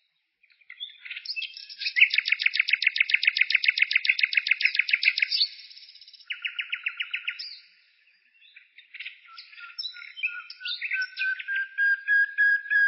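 A songbird singing. About a second in comes a rapid trill of evenly repeated notes lasting roughly four seconds, then a shorter trill after a brief pause. After a gap it moves into a varied run of quick notes that ends in a repeated, steadier whistled note.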